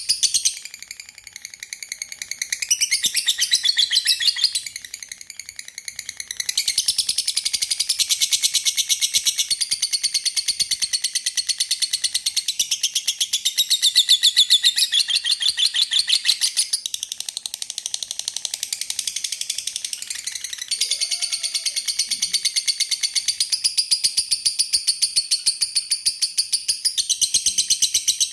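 Lovebirds chattering, a dense stream of rapid high-pitched chirps that dips quieter twice in the first six seconds.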